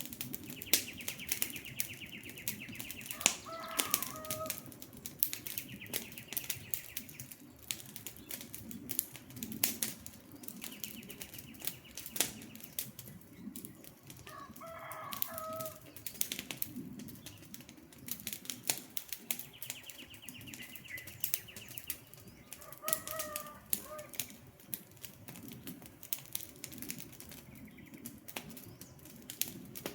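Wood fire crackling, with frequent sharp pops and snaps over a low rumble. A bird's call sounds three times, about ten seconds apart, and a fast high trill comes and goes several times.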